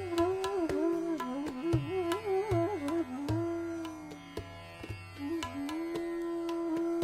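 Background music: Hindustani classical bansuri flute playing raga Bhopali, one gliding, ornamented melody over a steady low drone, with light struck accompaniment.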